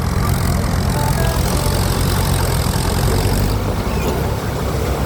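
Vehicle engine running with a deep, steady rumble.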